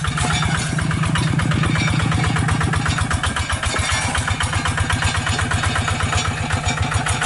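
Hand tractor's engine running steadily, with an even, rapid beat of firing pulses.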